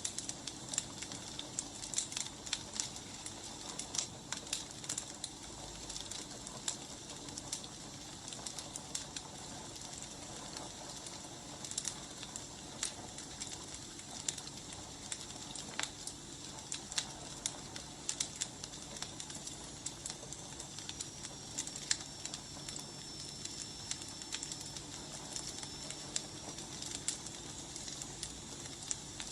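Wood fire crackling, with irregular sharp pops and snaps over a steady hiss of burning logs.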